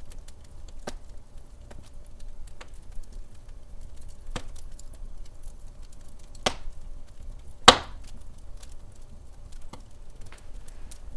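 Wood fire burning in a fireplace, crackling with scattered small ticks and a few sharp pops, the loudest pop about two-thirds of the way through, over a low steady rumble.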